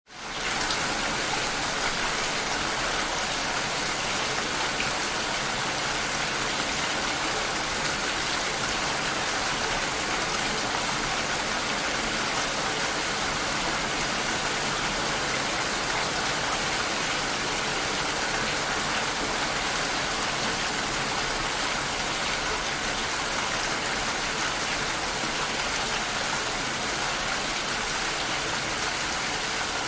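Rain falling steadily, heard through a glass door: a dense, even hiss that fades in over the first half second.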